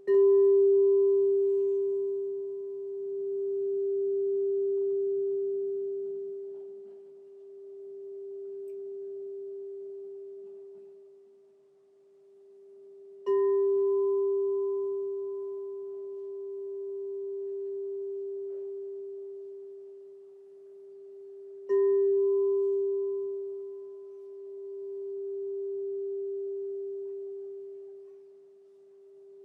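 Crystal singing bowl struck three times, each strike ringing on as one sustained tone with a fainter higher overtone. The ring slowly swells and fades in a wavering pulse as it decays, with the second strike about thirteen seconds in and the third about eight seconds later.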